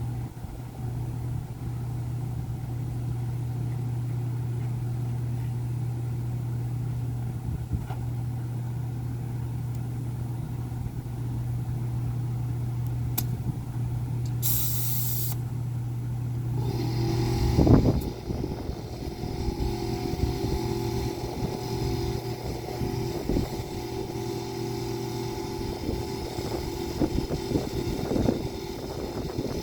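A motor running steadily with a low hum. There is a brief hiss about fifteen seconds in, and a loud knock a little after that, after which the motor's note changes to a higher, steady pitch with some clatter.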